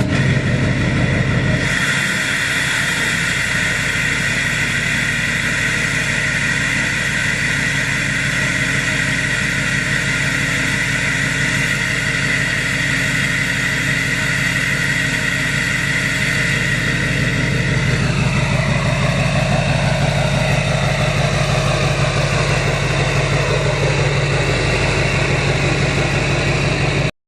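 Deleted 2014 Duramax 6.6 L V8 turbodiesel running through a 5-inch straight-pipe exhaust, idling just after start-up with a steady high whine over the deep exhaust note. About two-thirds of the way through, the whine drops in pitch and fades as the low exhaust note grows louder, then the sound cuts off suddenly.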